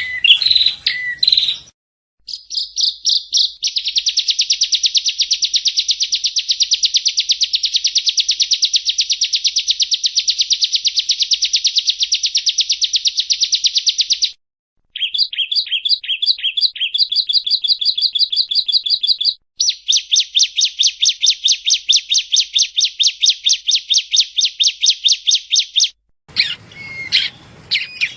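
Prenjak rawa (yellow-bellied prinia) singing: long, fast trills of rapidly repeated buzzy notes, cut into separate segments that start and stop abruptly, with a brief silence between them.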